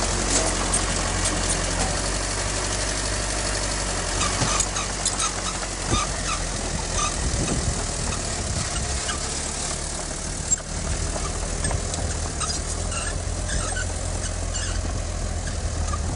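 Heavy diesel earthmoving machine engine running steadily at a low, even note, with short high chirps now and then.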